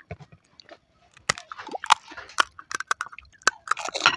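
Chewing and crunching of panipuri, the crisp hollow puri shells cracking between the teeth in irregular sharp crunches.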